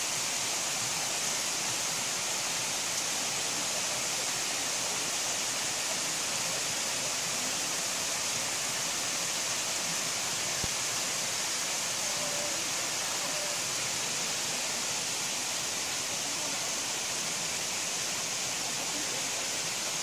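Waterfall: water falling in a steady, unbroken rush with a bright hiss.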